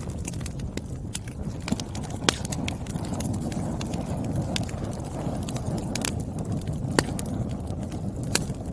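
Firewood burning and crackling: a steady low rush of flames with scattered sharp pops and ticks, a few of them much louder than the rest.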